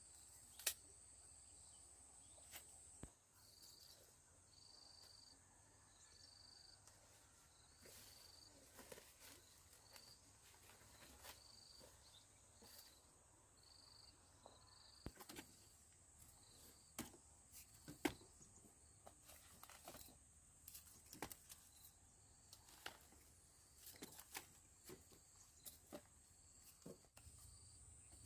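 Faint outdoor insect sound: a steady high-pitched drone with short high chirps repeating about once a second. Scattered sharp clicks and snaps sound throughout.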